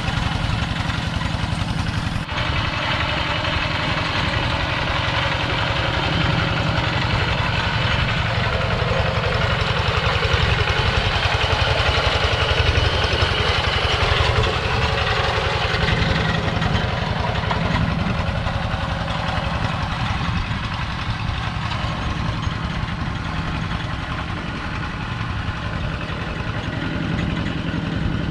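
Engine of a two-wheel walking tractor running steadily at an even idle-like pace.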